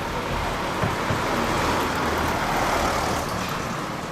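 Motor vehicle noise: a steady rushing that swells about two to three seconds in and eases off near the end.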